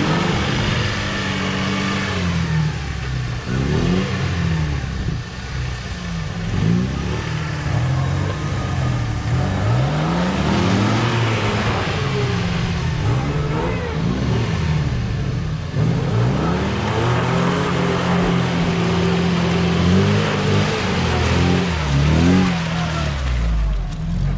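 UAZ off-roader's engine revving up and down over and over as it tries to drive free while sitting on its axles in a deep rut.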